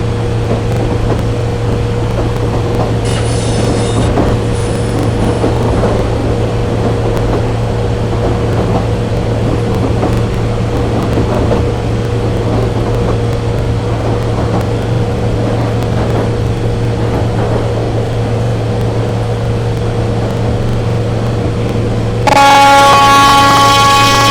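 Train running with a steady low rumble and hum. Two brief faint horn toots come about three and five seconds in. Near the end a loud train horn sounds and holds its note.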